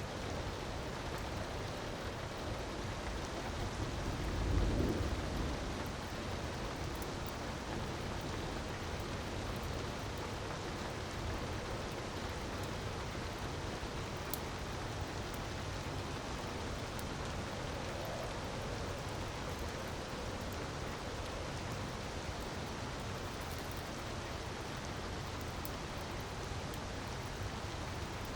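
Steady rushing rain-like water noise, with a low rumble of thunder swelling about four to five seconds in and a few faint crackles from a fire.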